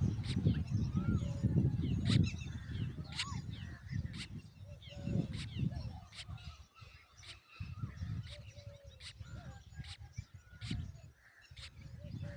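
Birds chirping and calling in short, sharp notes and quick glides, over an uneven low rumbling noise that eases in the second half.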